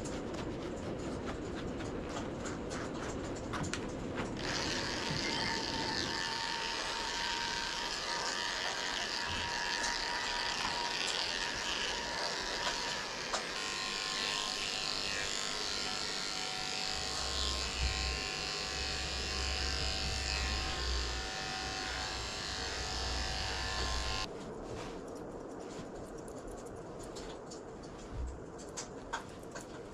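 Electric dog-grooming clippers running steadily through fur, the sound shifting a few times. About three quarters of the way through the clipper sound stops, leaving quieter handling noise and a few clicks.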